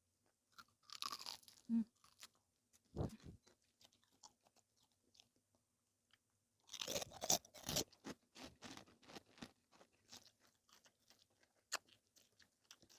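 A person chewing crunchy food close to the microphone: wet mouth clicks and crunches throughout, with the loudest burst of crunching about seven seconds in.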